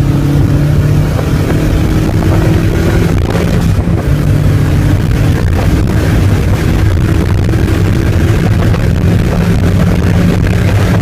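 Mazda Miata's four-cylinder engine pulling hard under full throttle, heard inside the cabin over wind and tyre noise, as the car accelerates from about 75 to over 110 mph. The engine note briefly dips about four seconds in.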